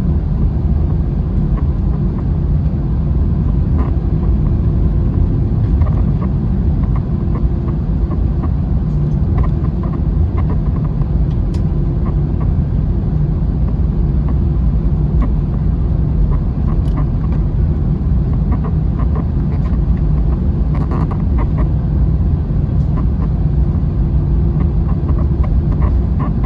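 Airbus A321 cabin noise heard from a window seat: a steady, loud low rumble of the engines and airflow with a constant hum underneath, and a few faint ticks and rattles of the cabin fittings.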